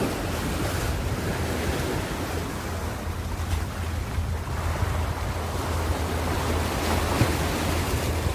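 Ocean surf washing on a shore: a continuous rush of breaking waves over a steady low rumble, easing a little a few seconds in and building again toward the end.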